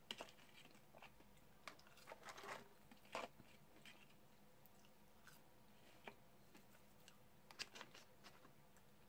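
A person chewing French fries, with soft, wet mouth clicks and smacks scattered irregularly and a few louder ones about two to three seconds in.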